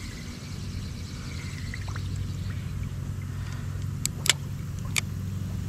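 Steady low hum of a small motor, with a few sharp clicks about four to five seconds in.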